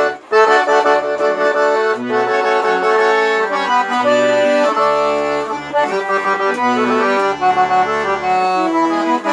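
Accordion (sanfona) playing a lively melody, with bass notes sounding underneath at intervals.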